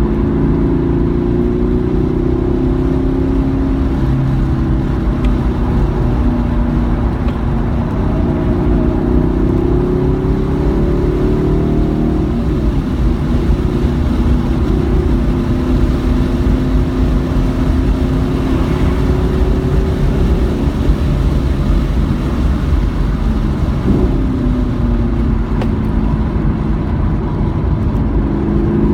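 Car engine pulling hard on a race track, its pitch climbing slowly and then dropping back sharply, about a dozen and two dozen seconds in, under steady road and wind noise.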